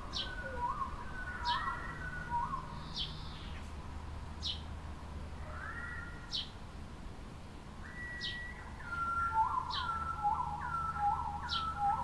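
Birds chirping and whistling: a sharp, very short high note repeats about every second and a half over clusters of lower whistled notes, which pause for a couple of seconds in the middle.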